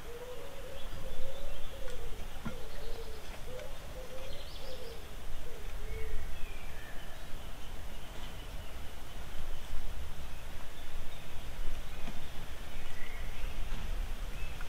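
A bird cooing in a run of low, wavering notes that stops about six seconds in, with a few short higher chirps from small birds, over a steady low background rumble.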